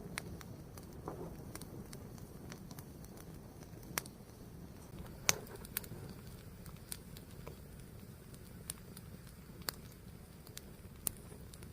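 Fire burning: a low steady rush with irregular sharp crackles and pops scattered through it, the loudest about five seconds in.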